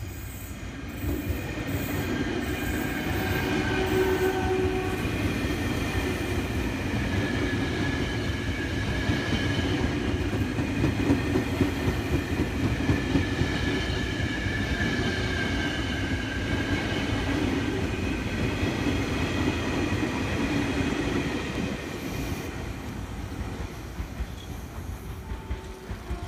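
A train passing close by, its wheels squealing on the rails in several steady high tones over the rumble and clatter of the running gear. The sound swells about a second in and eases off over the last few seconds.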